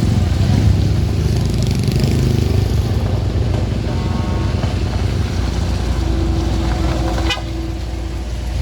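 Road vehicle engines running, a loud low rumble with a few faint steady tones over it. There is a single sharp knock about seven seconds in.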